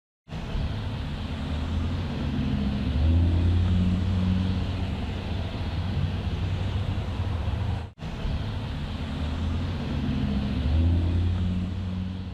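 Engine running steadily at a low pitch, swelling twice, with a sudden brief cut about eight seconds in.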